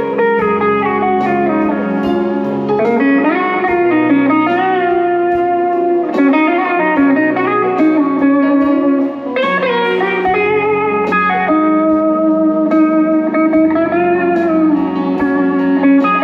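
Live guitar music with no singing: a slow blues guitar line whose notes glide up and down, slide-style, over a steady low accompaniment.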